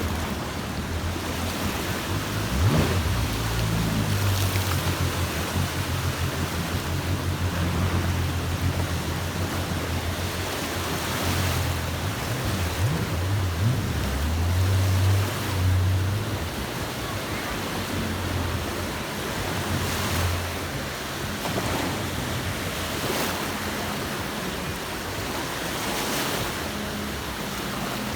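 Sea waves breaking and washing up the shore, swelling every few seconds, with a low rumble underneath that fades out about two-thirds of the way through.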